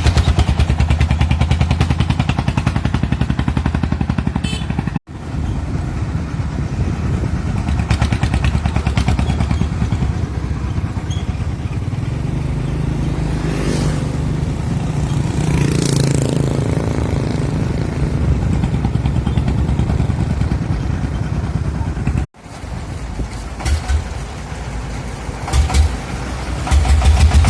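Small diesel engine running with a steady, rapid knocking beat. The sound cuts out abruptly twice and comes straight back.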